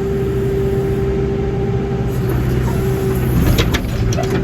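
Backhoe's diesel engine running steadily with a steady whine over it, and a few sharp metallic clanks near the end as the machine works.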